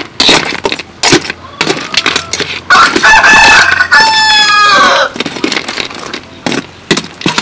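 A rooster crows once in the middle, a loud call of a little over two seconds that falls in pitch at the end. Sharp clicks and knocks come repeatedly before and after it.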